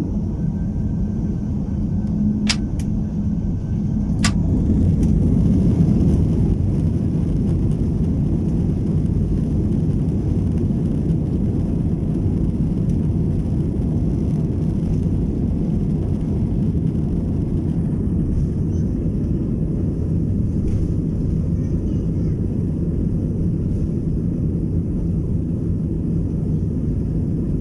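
Airbus A320-216's CFM56 turbofan engines at takeoff thrust, heard from inside the passenger cabin. The first seconds hold a steady hum and a higher whine, with two sharp clicks. From about four seconds in, a dense rumble builds and holds as the airliner accelerates down the runway on its takeoff roll.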